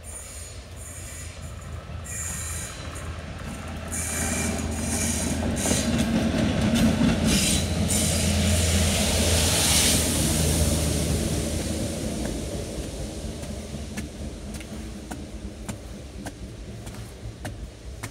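A train passing on the railway line close by: the rumble and rush build over several seconds, are loudest about halfway through, then fade away, with some high thin tones near the start.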